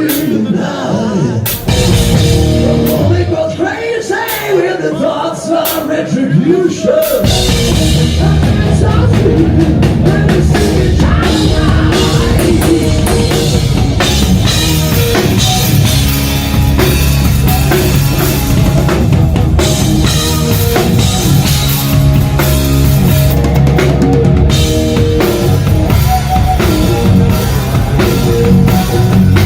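Rock band playing live: for the first seven seconds or so, spaced drum hits under a wavering lead line, then the full band comes in with heavy drums, bass and guitars.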